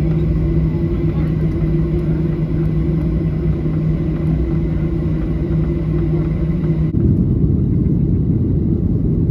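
Airliner cabin noise on a Boeing 737-800: a steady drone of its CFM56 engines and airflow with a low, even hum. About seven seconds in, the hum stops abruptly and the sound turns into a rougher, lower rumble.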